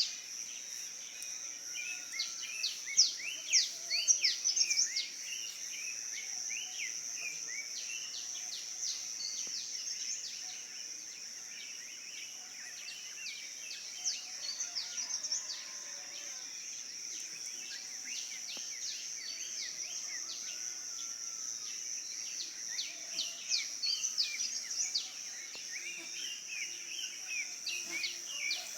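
Dawn chorus of many birds chirping and calling in quick, overlapping notes, over a steady high-pitched insect drone. The birdsong is busiest at the start and again near the end.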